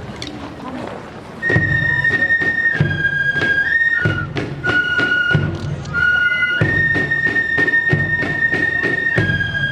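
Marching fife-and-drum band: high fifes play a melody of long held notes over regular drumbeats. The fifes come in about a second and a half in.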